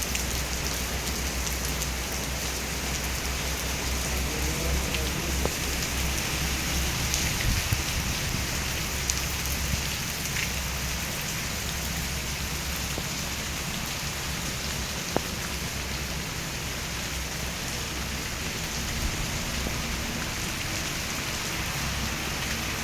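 Steady rain falling, with scattered sharper drop ticks over an even hiss and a low rumble underneath.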